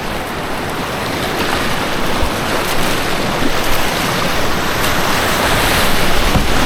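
White water rushing and churning as a steady loud noise, growing somewhat louder in the second half.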